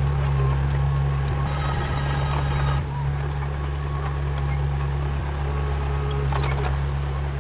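Komatsu D31 crawler bulldozer's diesel engine running steadily under work, with scattered sharp clicks and clanks, a cluster of them about six seconds in.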